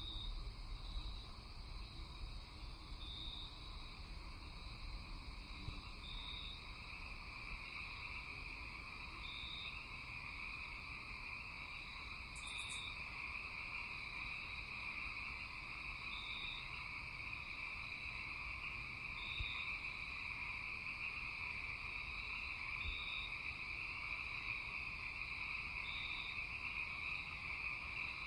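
Night chorus of frogs and insects: a steady high trilling, with a short higher call repeating about every three seconds and one brief high chirp about halfway through.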